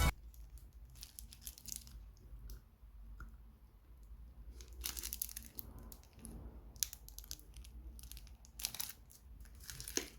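Chocolate wrappers crinkling and tearing in the hands in short, scattered bursts as chocolates are unwrapped.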